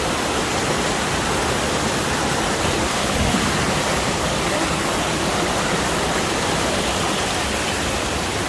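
Fast-flowing river rushing steadily, its current strong and the water high after heavy rain.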